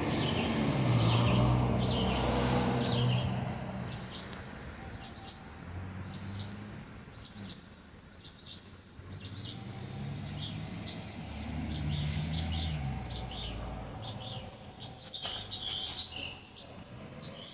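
Small birds chirping outdoors: many short, high chirps scattered throughout, busiest near the end, over a low background rumble that swells and fades a few times.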